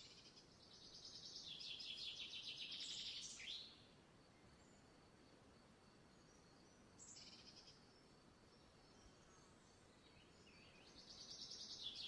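Faint, high-pitched buzzy bird trills in the background: a long trill of about three seconds near the start ending in a short falling note, a brief one in the middle, and another near the end.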